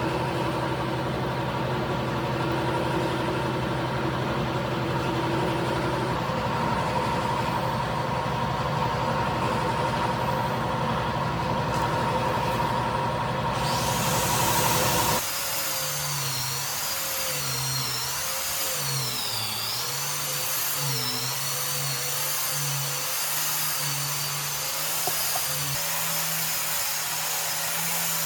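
Woodworking power tools running. A steady machine sound gives way, about halfway through, to a different tool whose pitch wavers up and down as it works.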